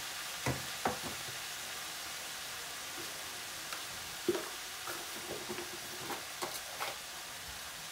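Shredded cabbage frying in oil in a cast-iron kadai over a low gas flame: a soft, steady sizzle with a few scattered small pops and ticks.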